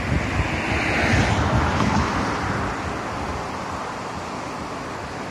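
A JR 205-series electric train running away from the listener, its noise fading out over the first two or three seconds, with wind buffeting the microphone throughout.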